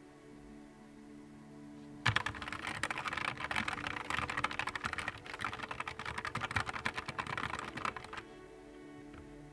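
Fast typing on a Nuphy Air 75 V2 low-profile mechanical keyboard: a dense run of key clicks that starts about two seconds in and stops about a second before the end, over soft background music.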